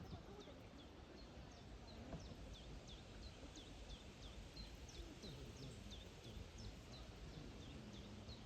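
A small bird calling over and over: short, high notes that each drop in pitch, two or three a second, steady throughout. Under it runs a faint low rumble of outdoor background noise.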